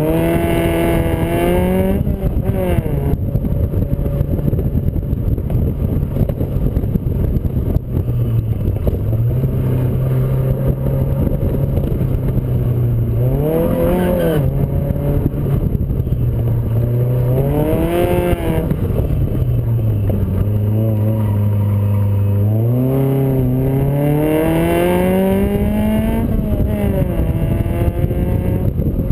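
Toyota-engined Triumph Spitfire's engine being driven hard on an autocross course, heard from inside the open cockpit. It revs up and falls back several times, with a long climb near the end, over heavy wind rush.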